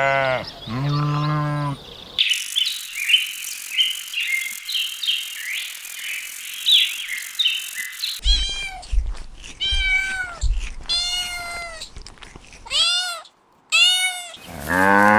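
A string of farm-animal calls. Bleats at the start give way to about six seconds of high-pitched chirping. A cat then meows repeatedly for about five seconds, and a cow's low moo begins near the end.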